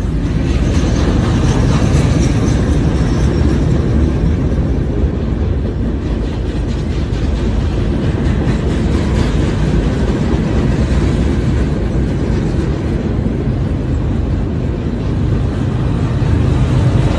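Freight train rolling past, a loud, steady noise of its wagons' wheels on the rails.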